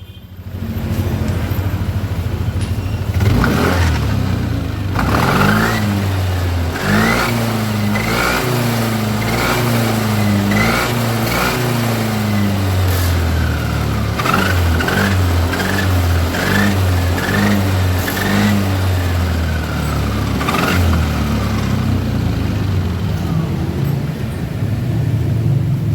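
Yamaha NMAX scooter's single-cylinder engine running and revved about a dozen times in short bursts, a whine rising and falling in pitch with each rev. The whine comes from a damaged final gear (gardan), which the mechanic puts down to water getting into the gear case.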